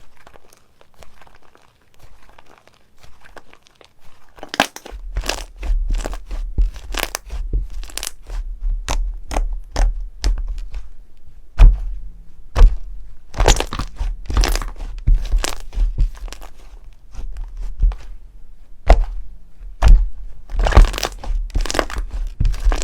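Slime being squeezed and pressed by hand, making crunchy crackling and popping clicks. It is faint for the first few seconds, then about five seconds in turns into dense, sharp crackles with a low rumble from the pressing.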